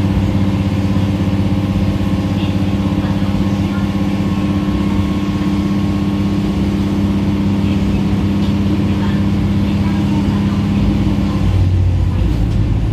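Diesel railcar heard from inside the passenger car: the engine runs steadily under power with a humming drone. About eleven and a half seconds in, the drone drops to a lower hum as the power setting changes.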